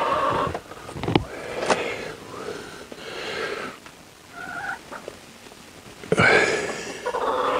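Domestic hens squawking and clucking in their coop. Two long, loud, rough squawks, one ending about half a second in and another starting about six seconds in, with softer short clucks in between.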